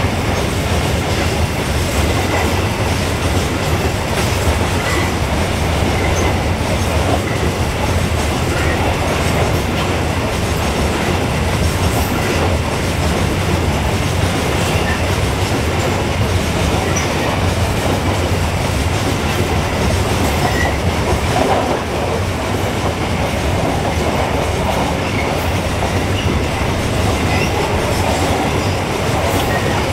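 Open-top wagons of a long coal train rolling past at close range: a steady rumble and clatter of steel wheels on the rails, with a few faint, short wheel squeals.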